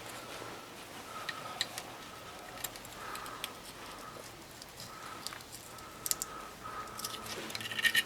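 Light clicks and taps of engine parts being handled and cleaned on a workbench, a denser run of clicks near the end, over a faint high tone that comes and goes.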